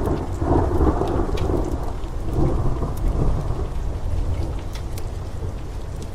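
A rolling thunderclap over steady rain: a low rumble that swells twice, then slowly eases. Faint scattered crackles of a wood fire sit above it.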